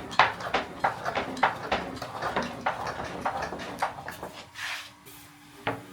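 Quick, irregular wooden knocks and clatter, several a second, thinning out about four seconds in, with one last sharp knock near the end.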